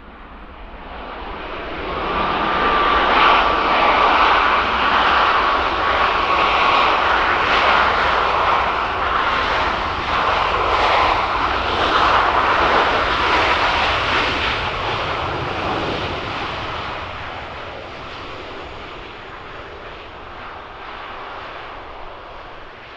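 Jet aircraft passing close by, its engine noise swelling over about two seconds and staying loud, with a whining tone that slowly drops in pitch, then fading away over the last several seconds.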